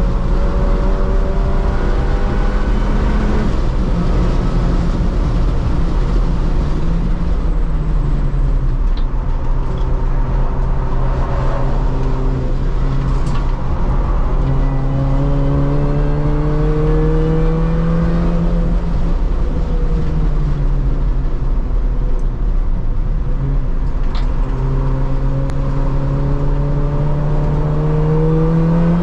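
R53 Mini Cooper S's supercharged 1.6-litre four-cylinder engine heard from inside the cabin under hard track driving, its note climbing through the revs and dropping back several times as the car accelerates, shifts and slows for corners.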